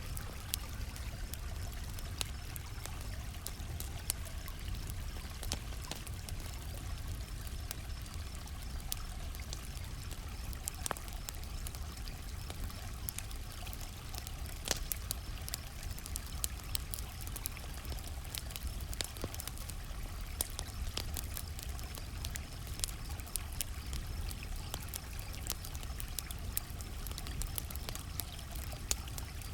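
Campfire burning with scattered sharp crackles and pops of varying loudness over a steady low rush, and crickets chirping faintly and steadily in the background.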